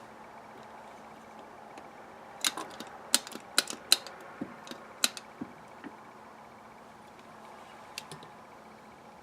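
Small metal carburetor parts and hand tools clicking and clinking as they are handled on a workbench: a quick run of about ten light clicks over three seconds, then a single click near the end. A faint steady hum underneath.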